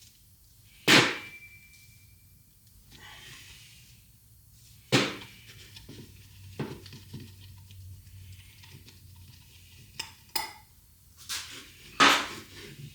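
About six sharp metallic knocks and clinks, spaced irregularly, from steel hub parts and tools being handled. The first knock rings on briefly like struck metal.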